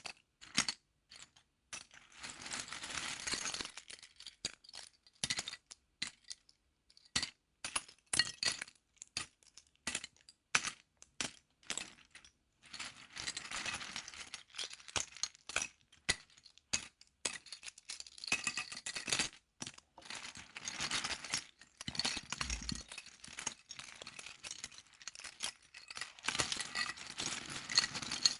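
Plastic Lego pieces clicking and rattling, single clicks between spells of dense rattling as loose pieces are stirred through.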